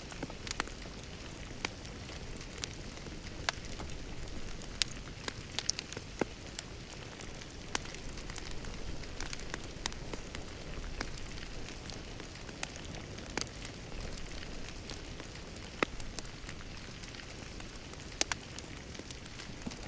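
Wood fire crackling in a fireplace: a steady low rustle of the flames with irregular sharp pops and snaps, about one or two a second.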